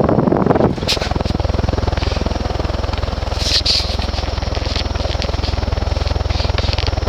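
Con-Tech 48-inch ceiling fan's heavy cast iron motor running on high through a solid-state speed control: a steady low hum under the whoosh of air from its wooden blades. A louder gust of air noise in the first second cuts off suddenly.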